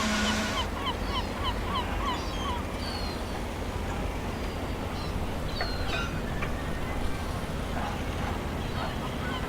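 Seagulls calling, many short repeated cries from several birds over a steady low rumble of harbour ambience. A loud hiss cuts off suddenly in the first second.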